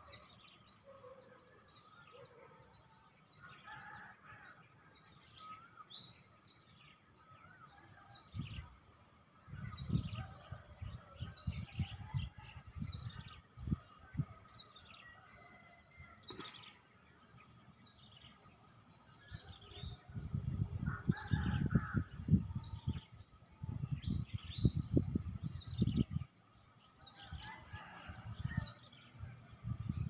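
Many birds calling from the riverside trees, a string of short falling chirps repeated throughout over a steady high hiss. Loud low rumbling buffets hit the microphone from about nine to fourteen seconds in and again from about twenty to twenty-six seconds.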